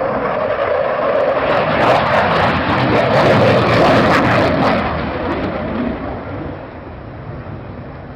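An aircraft flying past at an air display: a loud rushing engine noise that swells to a peak in the middle and then fades as it moves away.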